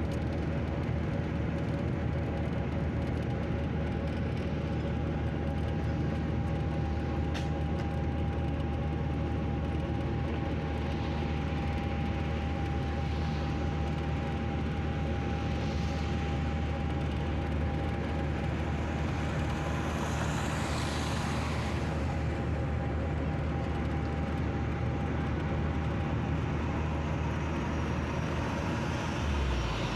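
An engine running steadily with a constant low hum, and a rising whoosh a little past the middle.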